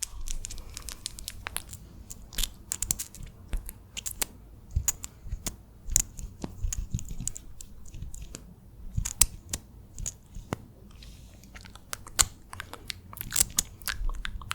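ASMR wet mouth sounds close to the microphone: irregular quick clicks, smacks and pops in clusters.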